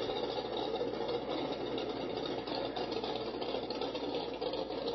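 Ford Mustang's engine idling steadily while the car rolls slowly forward at walking pace.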